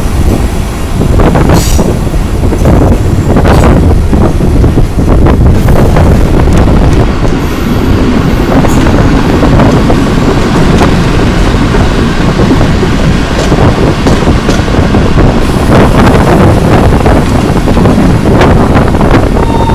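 A vintage passenger train rolling over jointed track and through station points, with a steady rumble and scattered sharp clacks from the wheels. Wind rushes over the microphone.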